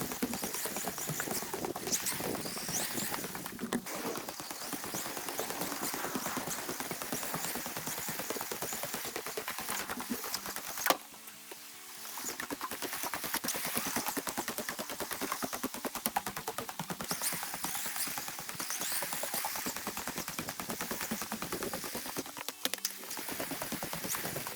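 Radio-controlled car being driven, a dense, rapid crackle of its wheels and drivetrain. It stops after a sharp knock about eleven seconds in and starts again about a second later.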